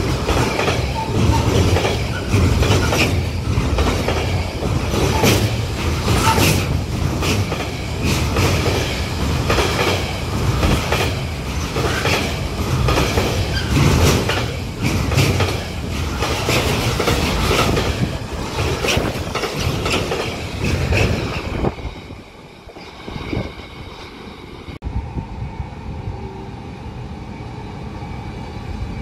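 Container freight train rolling past close by: loaded container wagons rumbling, with a run of clicks as their wheels cross rail joints. About 22 seconds in it cuts to a much quieter steady hum of an electric locomotive approaching with a passenger train.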